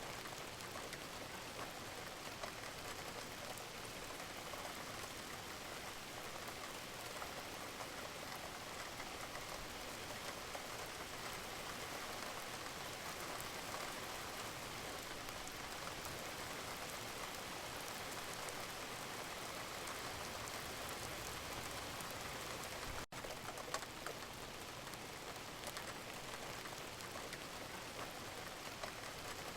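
Steady rain falling, a dense even patter of drops, with a momentary break in the sound about three-quarters of the way through.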